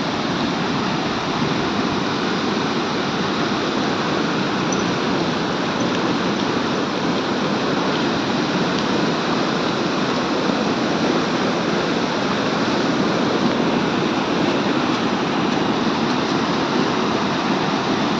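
Steady rushing water noise, even and unbroken throughout.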